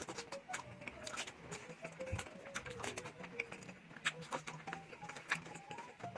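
Close-up chewing and mouth sounds of a person eating calderita, a meat stew, with many quick wet smacks and clicks.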